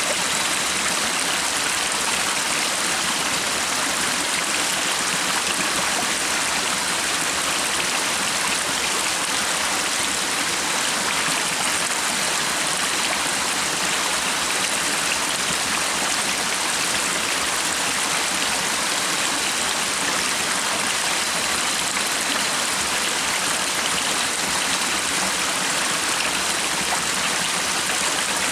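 A stream running steadily: an even, continuous rush of flowing water.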